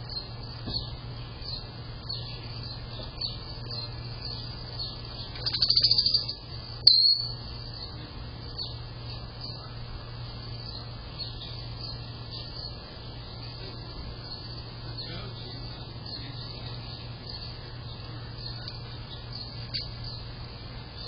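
Songbirds chirping, short high notes repeating over and over, with a louder rapid trill about six seconds in and a sharp single loud note just after it. A steady low hum runs underneath.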